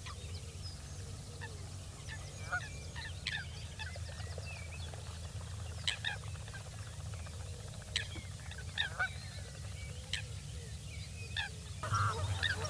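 Waterbirds giving short, scattered calls over a steady low rumble, with louder and more frequent calls starting near the end.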